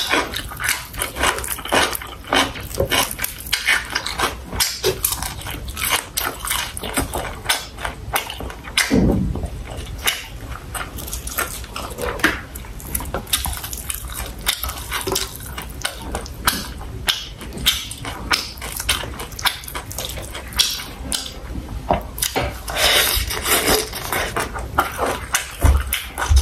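Close-miked eating of sausage with rice and vegetables: a dense, irregular run of wet chewing clicks and mouth smacks.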